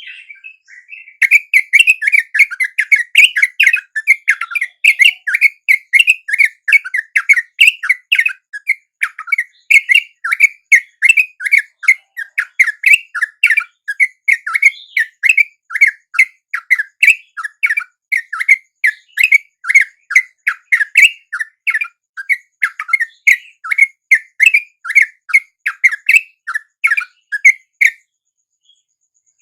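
Yellow-vented bulbul (trucuk) song: a fast, continuous run of short, chirping whistled notes, several a second. It breaks off briefly near the end.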